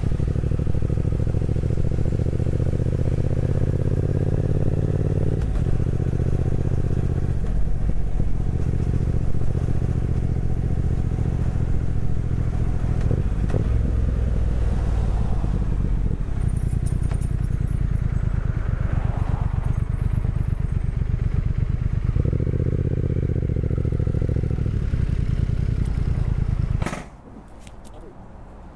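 Motorcycle engine running under way, its pitch rising and then stepping down several times as the revs change. The engine sound cuts off suddenly about 27 seconds in.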